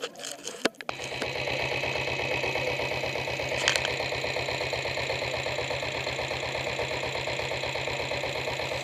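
Diesel motorcycle engine catching about a second in, then idling with a steady, even knock.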